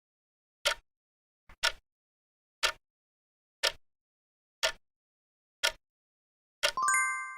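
Quiz countdown timer sound effect ticking about once a second. Near the end it gives way to a bright, ringing chime that signals time is up.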